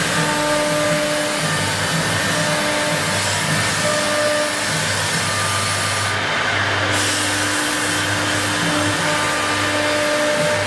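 Two-spindle CNC wood router running with a steady mechanical whir and hum.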